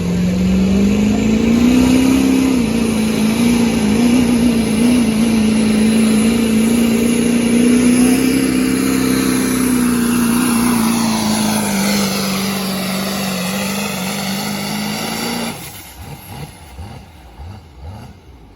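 Ford Powerstroke diesel pickup with a smoothbore turbo pulling a sled at full throttle, the engine held steady at high revs. About ten seconds in, a higher whine falls in pitch, and at about fifteen seconds the engine sound drops away suddenly.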